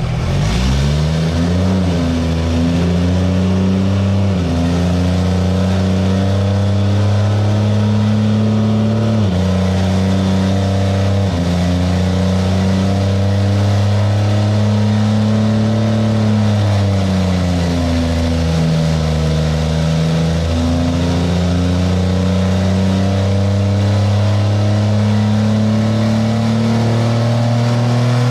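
Turbocharged Cummins diesel engine of a drag truck running hard on a chassis dyno. Its note climbs right at the start and then holds high, stepping down sharply twice, about nine and eleven seconds in, and sagging and rising again later on.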